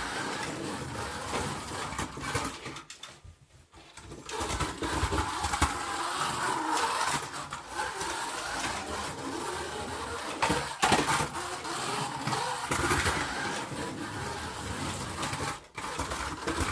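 Truck engines running, with a brief drop in level about three seconds in.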